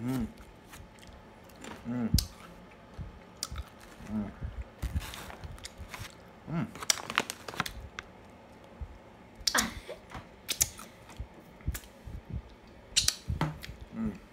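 A person chewing and crunching nuts close to the microphone, with lip smacks, crackles from a plastic snack bag, and a few short murmured vocal sounds.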